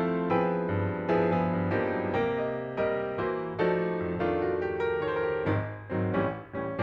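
Background piano music: slow, gentle notes that each ring out and fade, with a brief dip near the end.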